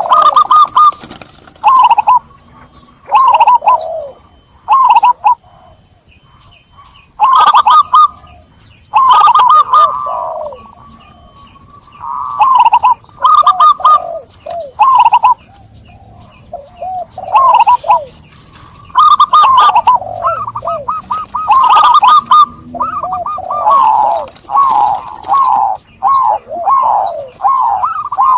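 Zebra dove (perkutut) cooing: loud phrases of quick, rolling notes repeated again and again with short pauses between them, coming faster and closer together near the end.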